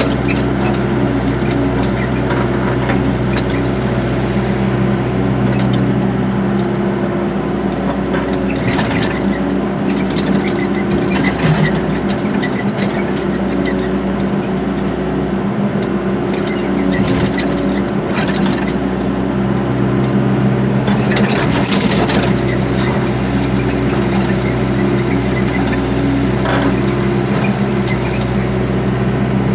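Excavator's diesel engine running loudly and steadily, its note wavering and shifting for a stretch in the middle before settling again, with scattered sharp knocks over it.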